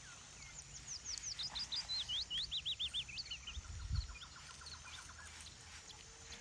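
A small songbird singing a fast, varied song of high sweeping notes and rapid trills for about three seconds, followed by a fainter short trill. A single low thump about four seconds in is the loudest sound.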